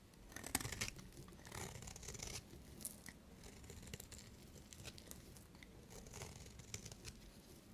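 Knife cutting through soap: crisp scraping and crunching strokes, the loudest about half a second in and another run around two seconds, with lighter scratches between.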